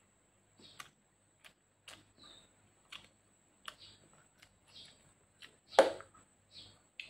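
Close-miked mouth sounds of eating with the hands: chewing, wet lip smacks and finger licking, heard as a string of short separate clicks. A single much louder knock comes about six seconds in.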